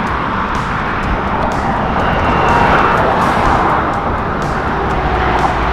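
Highway traffic passing close by: a steady, loud rush of tyres and engines.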